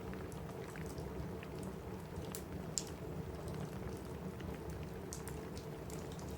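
Steady rain with the scattered crackles and pops of a wood fire, one sharper pop about three seconds in.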